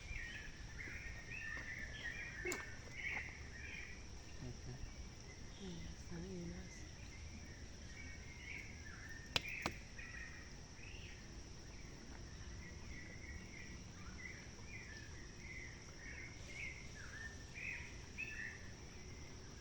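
Birds chirping in short, repeated calls over a steady high insect drone, with two sharp clicks about nine and a half seconds in.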